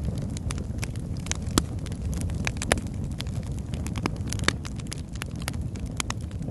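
Wood fire burning in a fireplace, crackling and popping: irregular sharp snaps over a steady low rumble of flame, with a few louder pops about a second and a half in and near the three-second mark.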